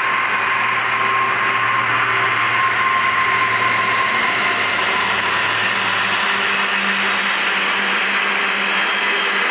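Class 66 diesel locomotive passing close by, its two-stroke V12 engine droning low and fading away about six seconds in. It is followed by the steady noise of loaded container wagons' wheels rolling over the rails.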